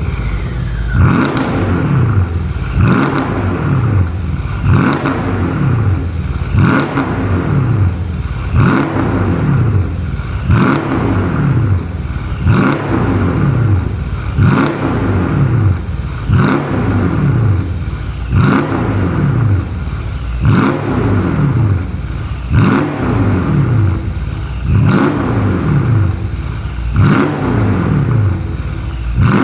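Mercedes-AMG CLS63's V8 through a Shout aftermarket cat-back exhaust, revved in repeated sharp throttle blips about every two seconds, each rev dropping back toward idle before the next.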